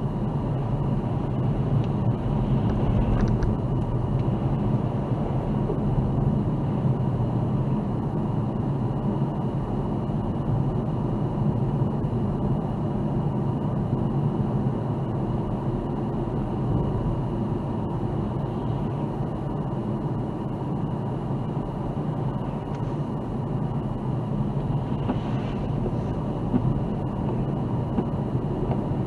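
Car driving: a steady low rumble of engine and tyre noise, with a faint thin whine above it.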